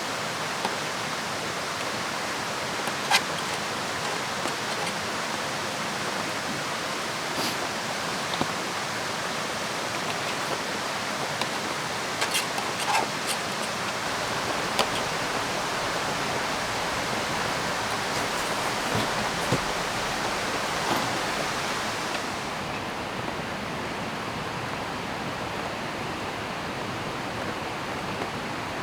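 Steady rushing of a river mixed with falling rain, with scattered sharp ticks. About three-quarters of the way through, the high hiss drops away and the sound turns duller.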